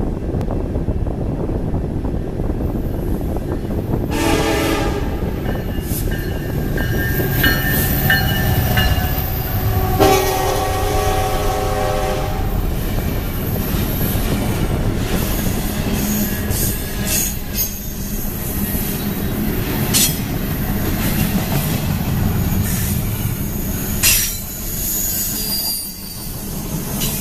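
Union Pacific freight train's horn sounding in several blasts as it approaches, the last and loudest about ten seconds in as the locomotives reach the camera. Then a steady rumble of double-stack container cars rolling past, with wheels clicking over the rail joints.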